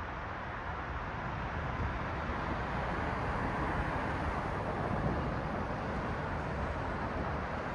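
Road traffic: the steady hiss of car tyres and engines passing on a city street, swelling as a car goes by near the middle.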